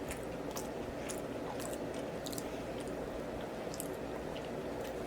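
A person chewing food with the mouth, making soft, wet clicks and smacks at irregular intervals.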